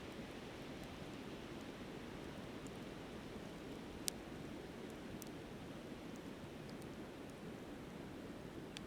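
Steady rushing of a flowing river under a campfire burning down to coals, with scattered faint crackles and one sharp pop about four seconds in.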